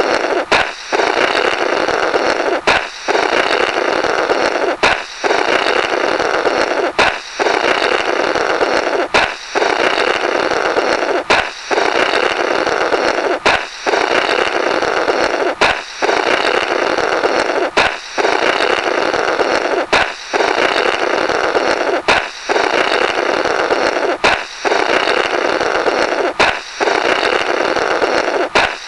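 Comic 'Blorrrt' balloon-break sound effect: a balloon pops sharply, then air is blown through the rubber remnants in a rasping, noisy sputter. The pair repeats about every two seconds, some fourteen times.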